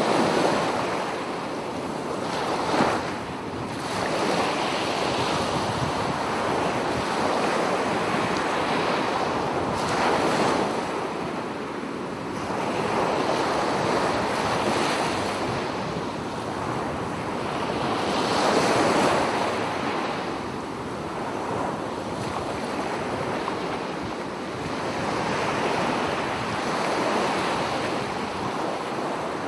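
Ocean surf: waves breaking and washing in a continuous rush that swells and eases every several seconds.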